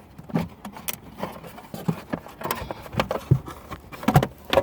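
Irregular knocks, clunks and clicks as a Bose car amplifier is worked loose and pulled out of its mounting after its bolts have been removed.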